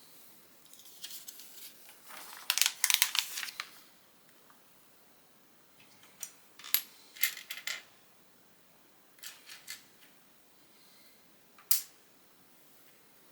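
Small plastic Lego pieces clattering as they are rummaged through, loudest about two and a half seconds in, followed by a series of short sharp clicks as pieces are picked up and handled.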